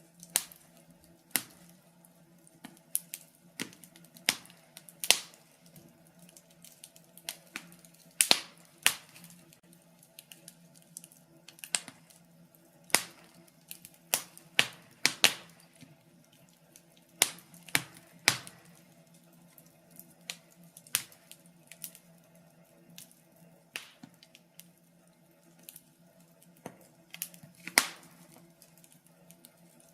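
Wood fire crackling in a fireplace: irregular sharp snaps and pops, one or two a second and uneven in loudness, over a faint steady low hum.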